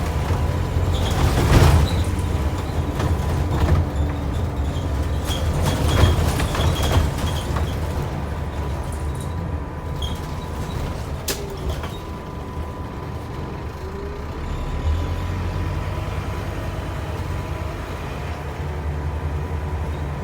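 Scania N230UB OmniCity single-decker bus's diesel engine running steadily, with short hisses of air about one and a half and six seconds in.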